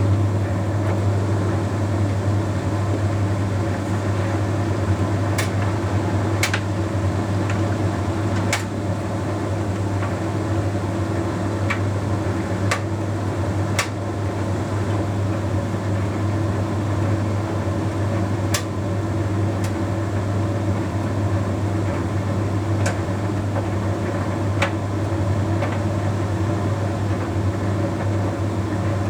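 Bosch Series 6 heat pump tumble dryer running through its self-cleaning condenser stage: a steady low hum and whir, with occasional sharp clicks.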